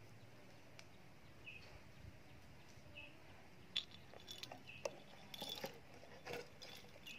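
Faint outdoor quiet with a small bird's short high chirps repeating every second and a half or so. A few faint clicks and rustles come in the second half, the sharpest about four seconds in.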